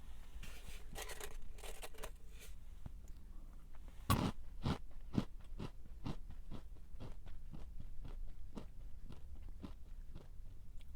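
A person biting into a crunchy snack: one loud crunch about four seconds in, then steady close-up chewing, crunching about three times a second.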